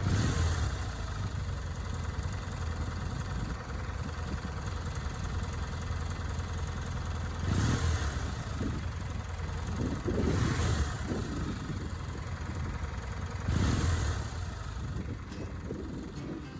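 Kawasaki W650's air-cooled parallel-twin engine idling through its stock muffler. The throttle is blipped four times, each one a brief rise in engine speed. The engine sound fades slightly near the end.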